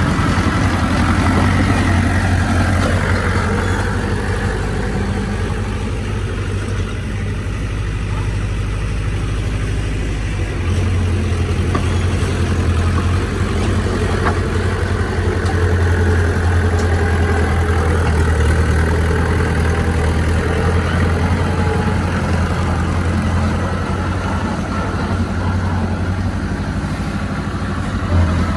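Heavy diesel engine of earthmoving machinery running steadily with a strong low note. It eases off about four seconds in and picks up again about eleven seconds in.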